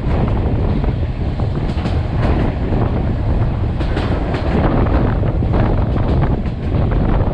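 Vietnam Railway SPT1 passenger train running along the track: a steady, loud rumble of wheels on rails, with irregular clicks and clatter, and wind buffeting the microphone.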